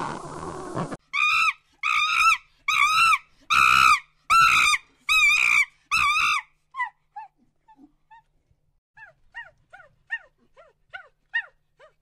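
Animal calls: a run of about seven high, arched yelping calls, then a string of quicker, fainter, short falling chirps.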